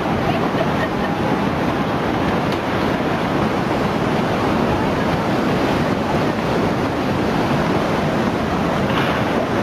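Continuous loud rush of churning water, with wind buffeting the microphone.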